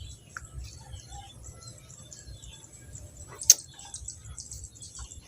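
Small birds chirping repeatedly in short calls over a low background rumble, with one sharp click about three and a half seconds in.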